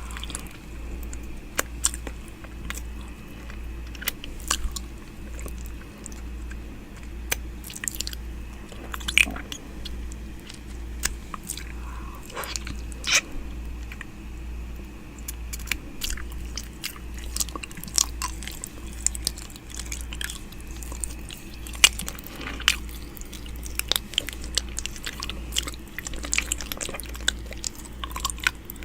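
ASMR 'ear eating' mouth sounds made right up against the microphone: a dense, irregular run of clicks, smacks and nibbling, over a low, steady hum.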